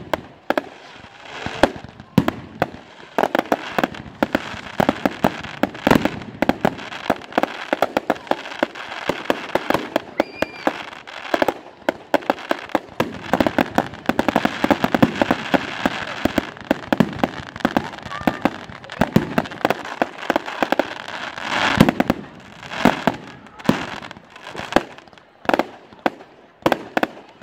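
Fireworks display: a rapid, continuous barrage of sharp bangs and pops, many a second, over a crackling hiss that thickens through the middle, with a louder rushing burst about three-quarters of the way through.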